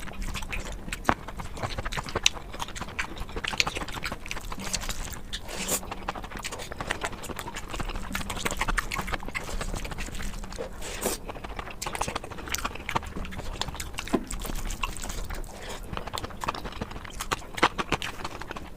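Close-miked eating: chewing and mouth smacking, with many irregular sharp clicks.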